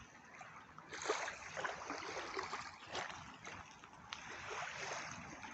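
Small waves lapping and splashing at the water's edge, an uneven run of soft wash and splash sounds.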